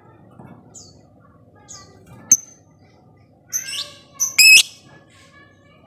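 Lovebirds calling: scattered short, high chirps, then a louder burst of shrill calls about four seconds in.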